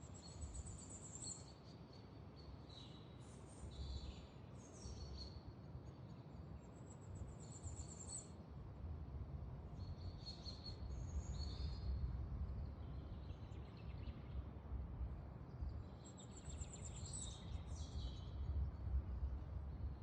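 Small songbirds singing in woodland: high, thin calls and a short rising trill heard three times, over a steady low rumble.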